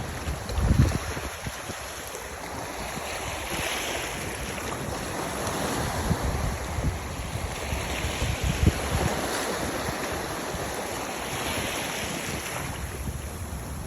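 Sea waves washing in, swelling every few seconds, with wind buffeting the microphone in low thumps about a second in and again near nine seconds.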